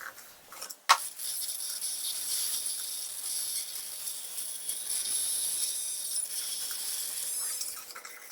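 A single sharp click about a second in as the prototype pool sound-transmission system is switched on, followed by a steady high-pitched hiss.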